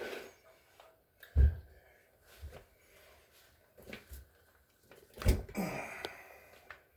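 A few dull thumps and knocks, the loudest about a second and a half in and another about five seconds in, with a short scrape after it: refrigerator parts and panels being handled and set in place.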